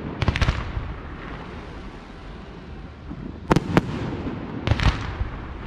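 Aerial firework shells bursting: a quick cluster of bangs just after the start, two sharp bangs about a quarter second apart some 3.5 s in, and another cluster near the end, each with a trailing echo.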